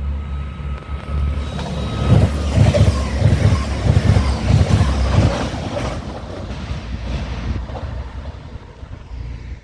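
Grand Central Class 180 diesel multiple unit running through the station at speed: a heavy rumble that builds, peaks between about two and five seconds in with a pulsing beat of roughly three a second, then fades away as the train passes.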